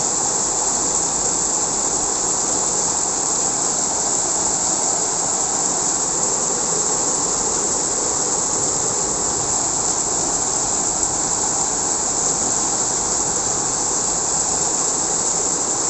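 Heavy rain pouring down in a strong wind, a loud, steady rushing hiss that does not let up.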